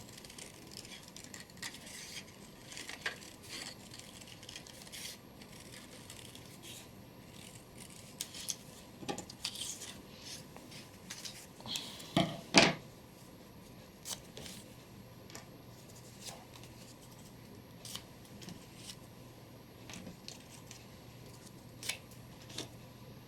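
Scissors cutting paper in short, irregular snips, with light rustling and small clicks as the paper is handled. There is one louder knock about halfway through, like something set down on the table.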